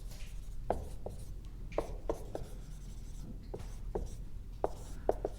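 Writing on a board: about ten short, irregular taps and strokes, fairly faint.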